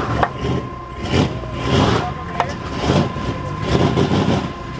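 Car engines running and revving in short swells, with a steady high whine throughout.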